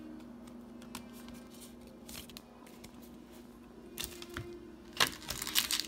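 Light clicks and rustles of trading cards being handled over a faint steady hum, then the crinkling and tearing of a foil booster pack being opened, starting about five seconds in.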